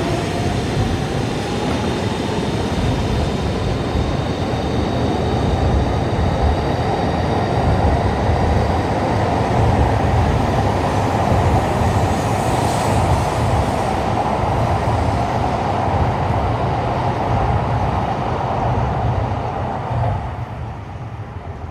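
Shinkansen train running: a steady rumble with an electric motor whine that rises slightly in pitch at first and then holds, ending abruptly near the end.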